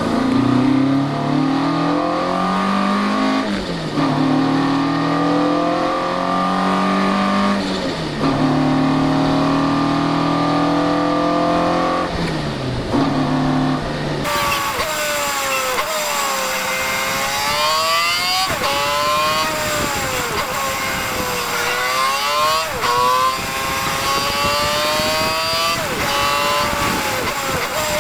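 Classic Alfa Romeo twin-cam four-cylinder engine at racing speed, revving up through the gears with a sharp drop in pitch at each upshift, every four seconds or so. About halfway in the sound changes, and the revs then rise and fall repeatedly with quick gear changes.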